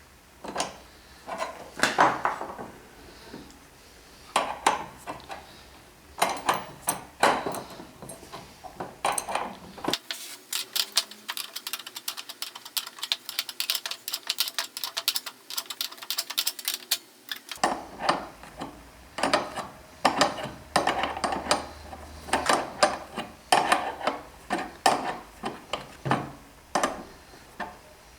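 Workshop handling sounds: wooden and metal jig parts and tools knocking and clattering on a bench in separate strikes. Partway through comes a run of rapid, crisp clicking lasting several seconds.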